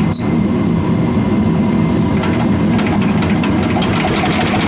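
Old tractor engine running steadily through a replacement vertical exhaust stack, a loud, even, fast-pulsing rumble.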